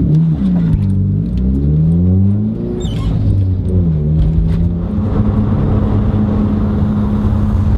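Nissan 180SX engine pulling through the gears: the revs climb and drop back several times at the shifts, then settle at a steady pitch at cruise with road noise underneath.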